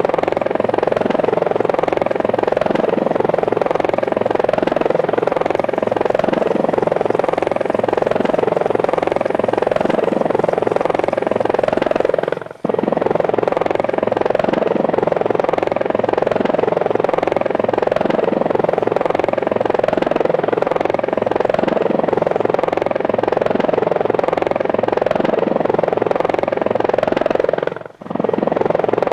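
Small model helicopter's motor and rotors buzzing steadily in flight, with two brief breaks, about halfway through and near the end.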